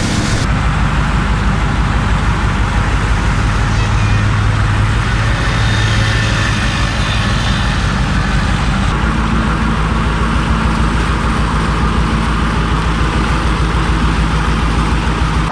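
A motor running steadily with a low drone and a fast, even pulse.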